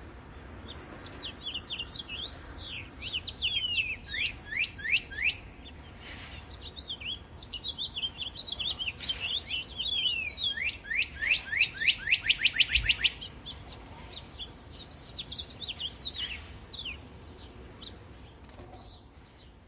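Songbirds chirping and singing, with two runs of rapid, repeated notes that sweep down in pitch; the second run, about ten seconds in, is the loudest. The birdsong fades out near the end.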